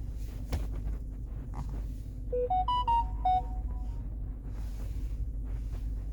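A short electronic chime: a quick run of five or six beeping notes stepping up and back down, lasting about a second, over a steady low hum.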